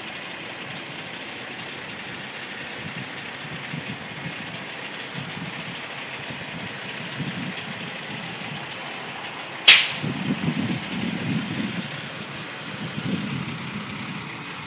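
Diesel engine of a tractor-trailer running low and steady as the truck reverses slowly. About ten seconds in, a short sharp hiss of the air brakes, followed by a few seconds of heavier engine rumble.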